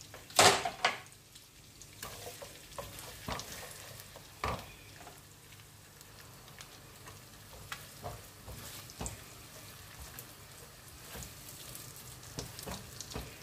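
Chopped onions, garlic and scotch bonnet pepper frying in melted butter in a frying pan, stirred with a silicone spatula that scrapes and taps the pan now and then. A loud clatter about half a second in.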